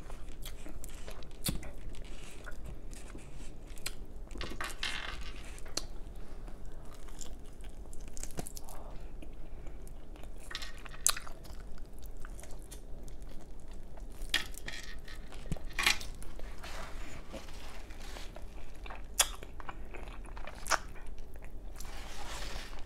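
A person biting and chewing chicken off a drumstick, heard close to the mic: a run of short, irregular mouth clicks and smacks.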